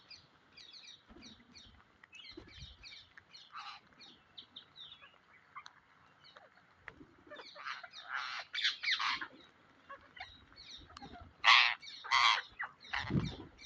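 Psittacula parrots chirping in quick, short calls, with several loud screeches in the second half.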